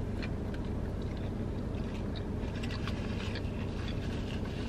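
Close-up chewing of a bite of crispy fried chicken sandwich: scattered small crunches and mouth clicks over a steady low hum in the car.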